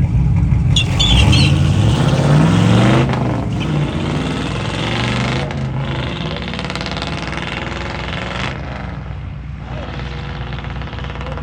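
Drag-racing vehicle's engine under hard acceleration, rising in pitch for about two seconds, then dropping at a gear change about three seconds in and fading as it pulls away down the track.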